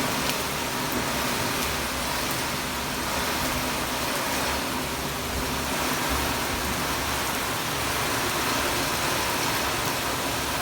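Heavy rain falling in strong wind: a dense, steady hiss with no let-up.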